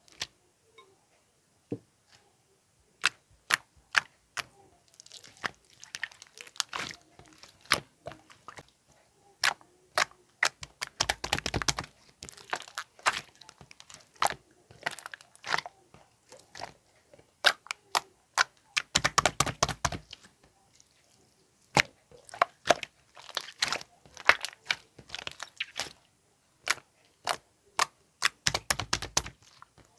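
Light green slime being pressed and squished, giving scattered sharp clicking pops and three runs of rapid, dense crackling: about a third of the way in, about two-thirds in, and near the end.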